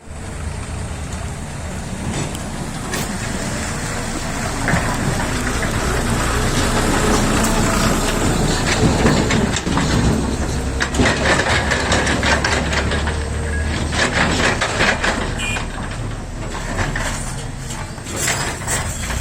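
Excavator's diesel engine running steadily while it digs, with repeated clanks and scrapes of the bucket on dirt and rock, more frequent in the second half.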